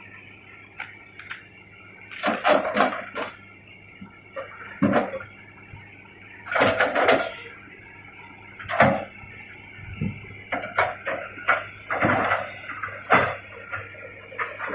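Excavator running with a steady engine hum, broken by irregular loud clanks and scrapes as it works, densest near the end.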